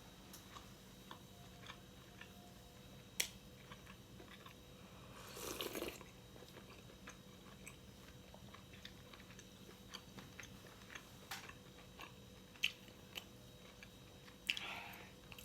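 A person chewing and biting food close to the microphone, with scattered wet mouth clicks and a few sharp louder clicks. There is a brief rushing sound about five seconds in and another near the end.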